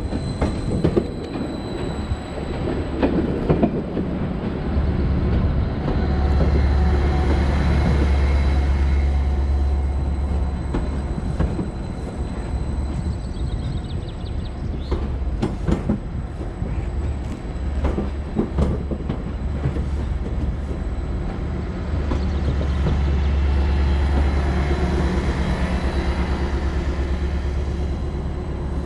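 Class 755 bi-mode multiple unit running on its diesel engines, a deep rumble that swells twice. A few clicks and knocks come around the middle, and a thin high whine sounds in the first half.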